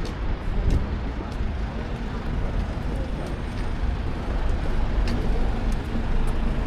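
Steady city road traffic: cars and buses passing, a continuous low rumble with a few faint ticks on top.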